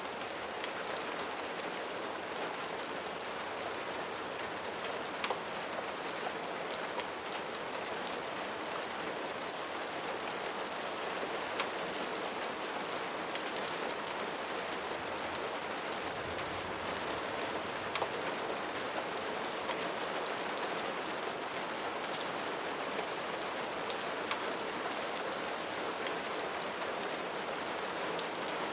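Steady rain falling, an even hiss dotted with many small, sharp ticks.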